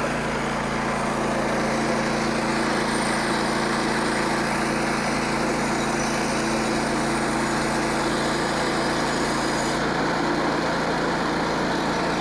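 Frontier OS27 sawmill's small engine running steadily at an even speed.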